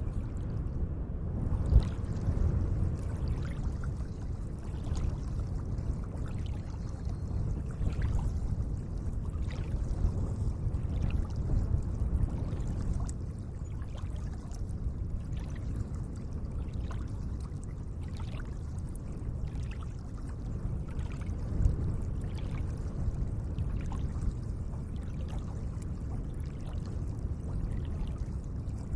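Gentle lake water lapping: a steady low wash with frequent small splashes and drips, and two brief louder splashes, one near the start and one about two-thirds through.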